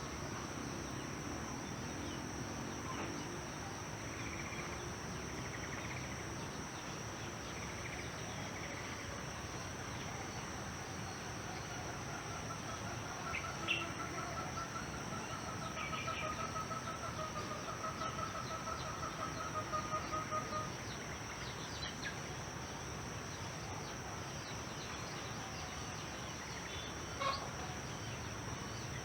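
Rural ambience: a steady high-pitched insect drone, typical of crickets, with scattered short bird chirps. A long wavering trill runs for about ten seconds in the middle.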